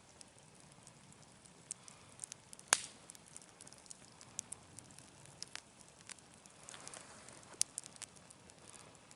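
Campfire burning with scattered crackles and pops of the wood. There is one sharp loud pop a little under 3 s in and another near 7.5 s.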